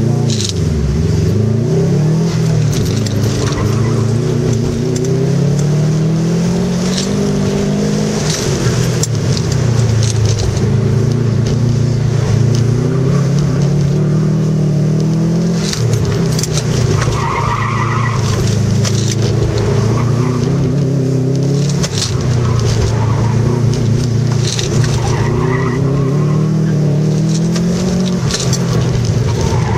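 2003 Subaru WRX's turbocharged flat-four engine heard from inside the car, revving up and dropping back again and again as the car is driven hard through tight turns, with tires squealing at times.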